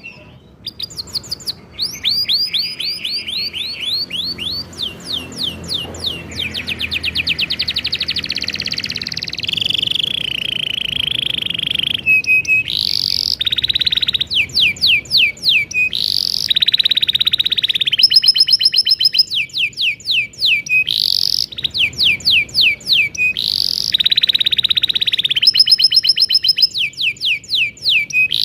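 Domestic canary singing a long, continuous song of fast rolling trills, with runs of quickly repeated sweeping notes that change from one phrase to the next.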